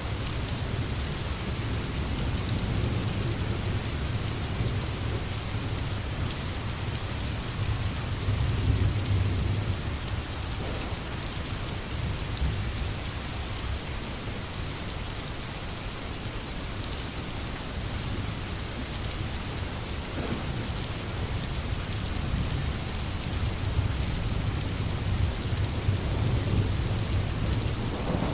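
Steady rain hissing, with distant thunder rumbling low underneath, swelling and fading a few times and building again toward the end.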